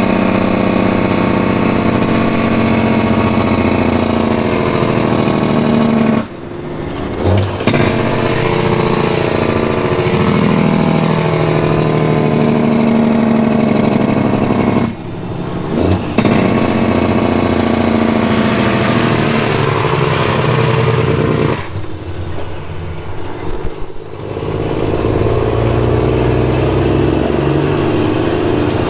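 Peterbilt 379 dump truck's diesel engine pulling a load of about 52,000 pounds of base rock. The engine note breaks off briefly three times, as it does at gear changes.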